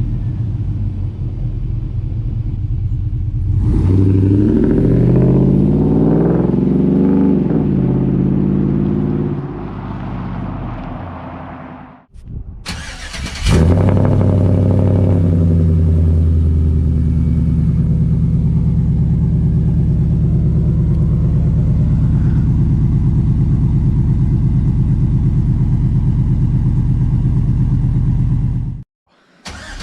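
Chevy Silverado's 5.3-litre LM7 V8 through longtube headers and a Borla XR-1 muffler, running at idle, then revved up and down a few times. The sound fades and drops out about twelve seconds in, then comes back loud and settles into a steady deep rumble.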